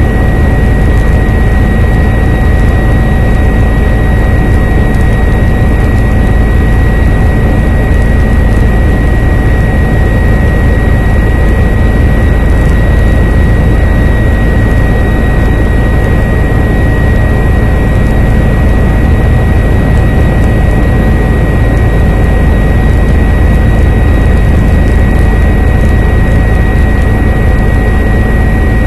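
Helicopter in flight: loud, steady rotor and engine noise with a fast low pulsing and a constant high-pitched whine.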